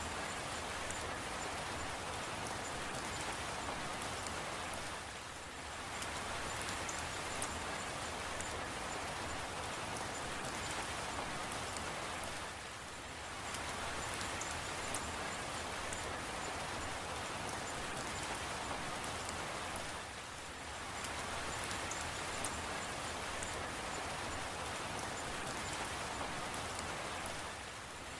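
Steady rain falling, with scattered single drops ticking, easing briefly about every seven seconds.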